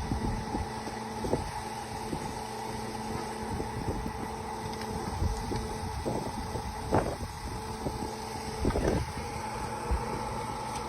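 Drilling rig machinery running with a steady drone, with a few sharp knocks over it, the loudest about seven and nine seconds in.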